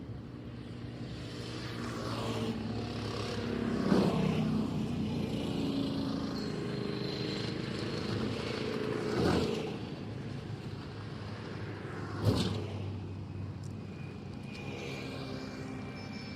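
Motor vehicles passing on a road, engine sounds swelling and fading in turn, with a short sharp knock about twelve seconds in.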